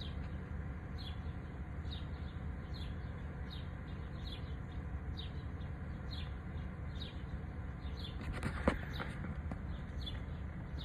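A bird outside repeats a short, falling high chirp about once every 0.8 seconds, over a steady low hum. A single sharp knock comes near the end.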